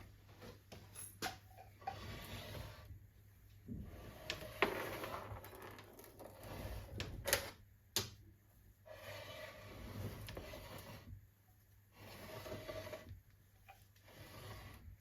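Faint scattered clicks and light knocks with short spells of rustling, the sound of small parts or tools being handled.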